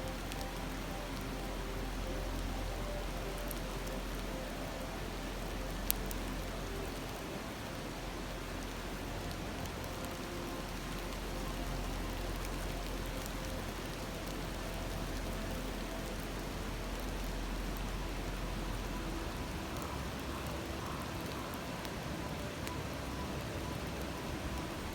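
Steady rushing of a river babbling over stones, with a campfire crackling now and then and one sharp pop about six seconds in.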